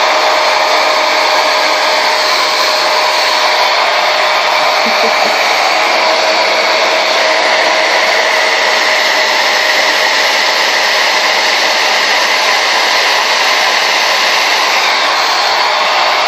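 Conair Yellow Bird blow dryer running continuously, a loud, even rush of air with a thin steady tone underneath.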